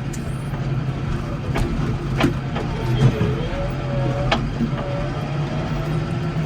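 Case 115U garden tractor engine running steadily, with a few sharp clanks and a faint wavering squeal about halfway through.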